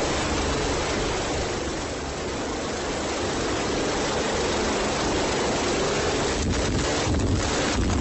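Helicopter running: a steady, fairly loud noise of engine and rotor with no change in pitch.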